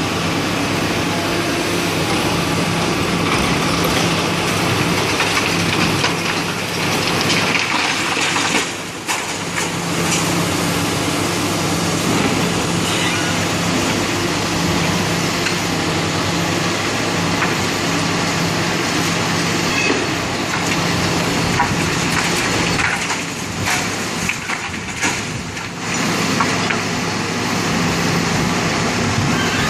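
Demolition machinery at work: an engine hums steadily under continuous crunching and cracking of broken building material.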